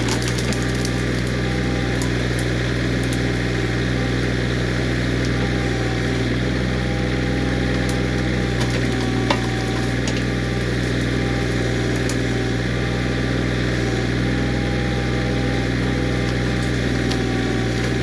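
Kioti CK20S compact tractor's diesel engine running at a steady speed while its backhoe hydraulics are worked, with scattered light clicks and a sharper knock about nine seconds in.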